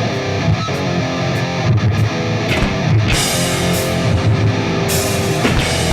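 Distorted electric guitar playing the intro riff of a hardcore punk song alone, with cymbal crashes coming in about three seconds in.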